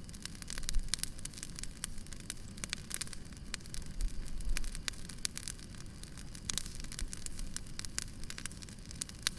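Wood bonfire burning, crackling with many small, sharp, irregular pops over a low, steady rumble.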